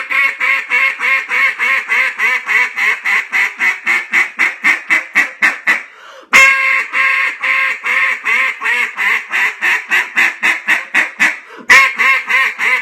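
JJ Lares A5 single-reed duck call blown loud, hail-call style: each run starts with a long loud note and then drops into a fast string of short quacks, about four a second. A fresh run starts about six seconds in and again near the end.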